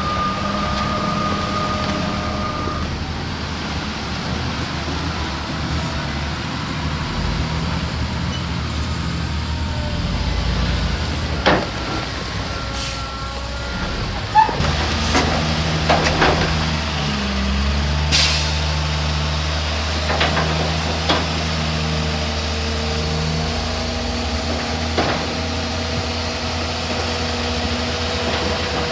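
Diesel engines of heavy earthmoving machinery, a bulldozer and dump trucks, running steadily under load, with scattered sharp knocks and clanks in the middle of the stretch.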